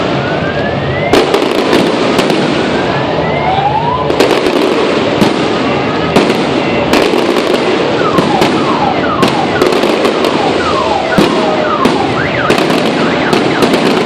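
Fireworks finale: a dense, continuous crackle with many sharp bangs. Whistling shells rise in pitch in the first few seconds, and a run of short falling whistles comes about two-thirds of the way through.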